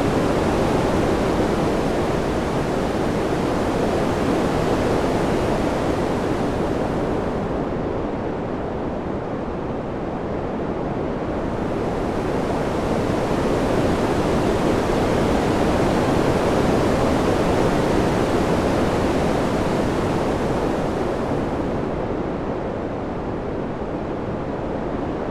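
Steady ambient wind sound: an even rushing noise that slowly swells and eases, going duller and a little quieter for a few seconds about a third of the way in and again near the end.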